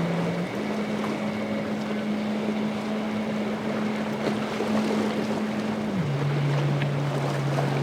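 Motorboat engine running over wind noise on the microphone and the wash of waves; its hum steps up in pitch about half a second in and drops back about six seconds in.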